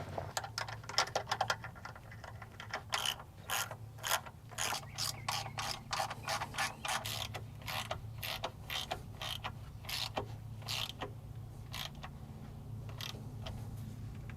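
Ratchet wrench clicking in quick, irregular runs of strokes, tightening the mounting bolts of a replacement starter; the clicking thins out and stops near the end.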